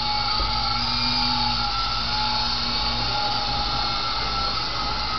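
Sky Rover toy remote-control helicopter's small electric motors and spinning rotors, a steady whirring whine.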